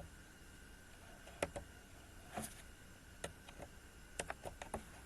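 Scattered short clicks and taps, about a dozen at irregular intervals, several bunched together near the end, over a faint steady background hum.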